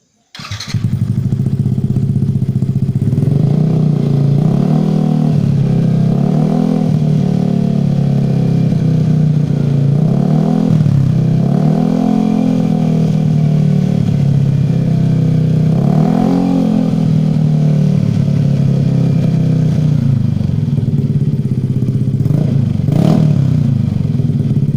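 Yamaha NMAX scooter's single-cylinder engine through an aftermarket Daytona racing exhaust, starting up about half a second in and idling, blipped on the throttle about six times.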